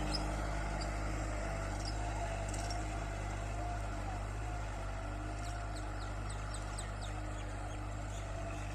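Kubota tractor's diesel engine running steadily at an even, unchanging speed.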